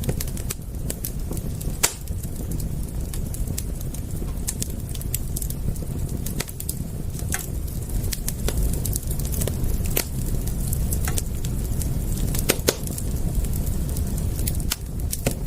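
Wood fire crackling: irregular sharp pops and snaps, a few louder ones about two seconds in and again near the end, over a steady low rumble.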